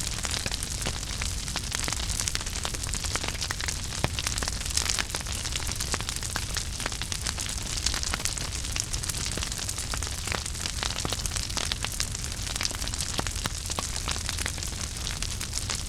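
Fire burning in a fireplace, crackling with frequent irregular sharp pops over a steady low rumble and hiss.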